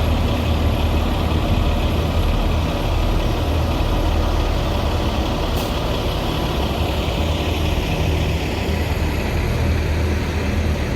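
Heavy diesel engines of asphalt paving trucks running steadily, a deep continuous drone.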